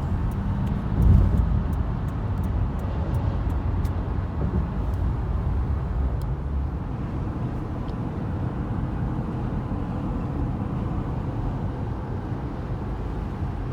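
Car driving on the highway: a steady low rumble of road and engine noise, with a brief louder thump about a second in.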